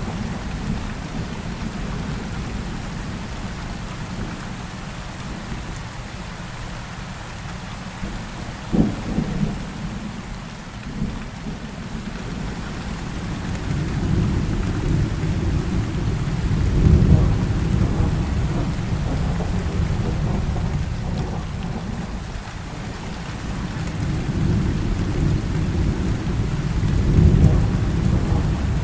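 Heavy rain falling steadily through a thunderstorm, with a couple of sharp cracks of thunder about nine and eleven seconds in, then long low rolls of thunder swelling and fading twice in the second half.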